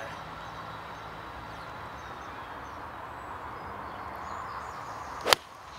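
A 6-iron striking a golf ball: one sharp click about five seconds in, over steady outdoor background noise. The shot didn't sound like a good strike, and the players wonder whether it was hit off the toe.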